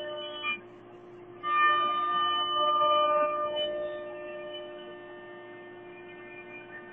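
Yimming 1325C CNC router running: a steady high whine, with pitched motor tones that drop out briefly, come back louder about a second and a half in, and fade away after about four seconds.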